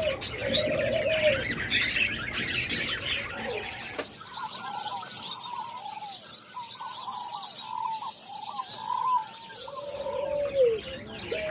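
Caged doves cooing: a long held coo near the start and another near the end that drops away, with a run of short arching coos in the middle. Small pet parrots chirp and chatter steadily over it.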